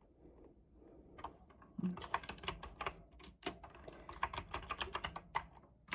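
Mechanical keyboard being typed on: a few light key taps at first, then fast, steady clacking of keystrokes from about two seconds in.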